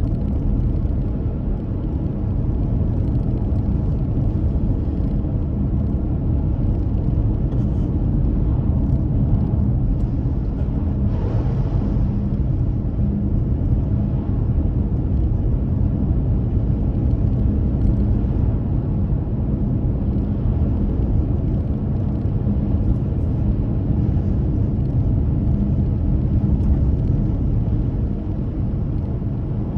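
Car driving on the road, heard from inside the cabin: a steady low rumble of road and engine, with a brief louder rush of noise about eleven seconds in.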